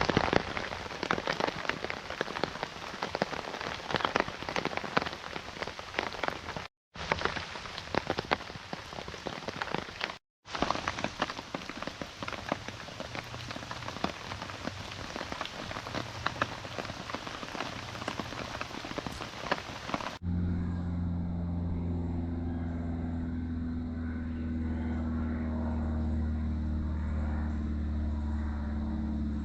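Steady rain, a dense patter of drops. About two-thirds of the way through it gives way abruptly to a steady low drone made of several held low tones.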